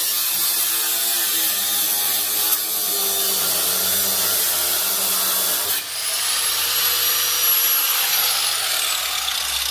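Power tools running steadily while cutting metal. About six seconds in the sound changes abruptly to a high whine that holds, then falls near the end as the tool spins down.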